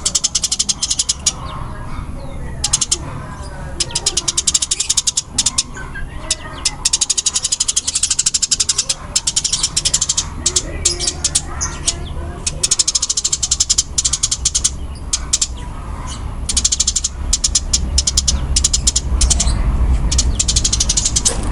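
Eurasian tree sparrows chirping in fast, tightly packed volleys of high chirps broken by short pauses: the rapid call of sparrows fighting.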